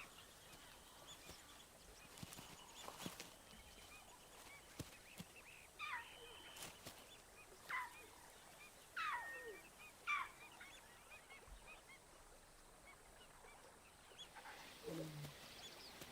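Faint animal calls: four or five short calls in quick succession, each falling sharply in pitch, then a lower call near the end.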